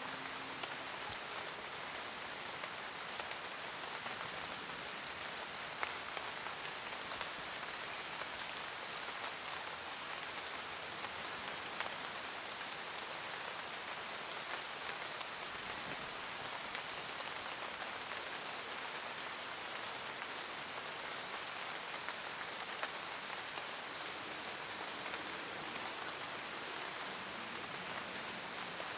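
Steady rain falling in a forest, an even hiss of rain with individual drops ticking sharply here and there on leaves and nearby surfaces.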